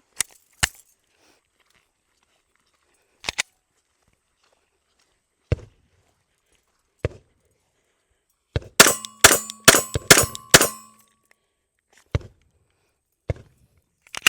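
Glock 25 pistol in .380 ACP fired about seven times in quick succession, all in under two seconds, starting about nine seconds in, with a metallic ringing that hangs on after the shots. Before the string come a few separate clicks and clacks of the gun being handled, and a couple more follow it.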